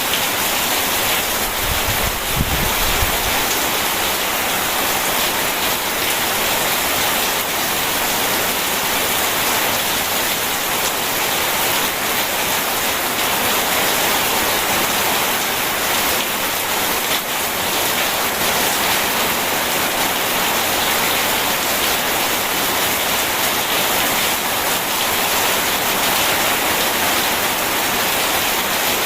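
Steady, dense rain mixed with running water, with a brief low rumble about two seconds in.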